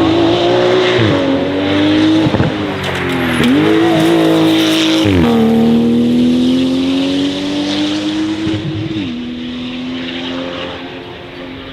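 Porsche 911 GT2 RS Clubsport's 3.8-litre twin-turbo flat-six accelerating hard, the engine note climbing and then dropping sharply at four upshifts, and fading as the car pulls away.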